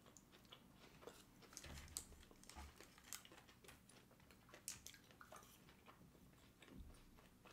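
Faint, close-up chewing: soft, irregular mouth clicks and smacks from people eating sushi.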